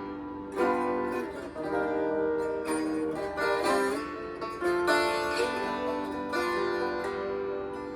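Guitar playing an instrumental passage of a slow rock song: long, sustained notes, with a short bend in pitch a little before the middle.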